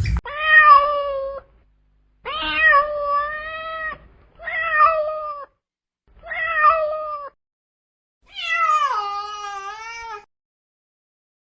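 Domestic cat meowing five times, each call about a second or two long. The last meow is the longest, falling in pitch and wavering.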